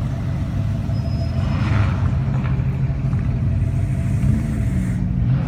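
A car engine running with a steady low rumble, its pitch lifting slightly about four seconds in.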